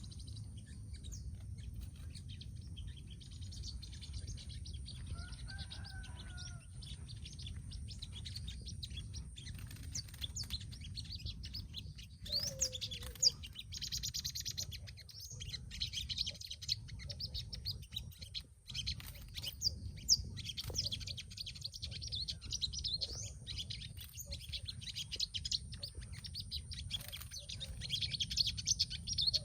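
Many small birds chirping and twittering in short, high calls, busier in the second half, over a steady low hum and a thin, steady high whine.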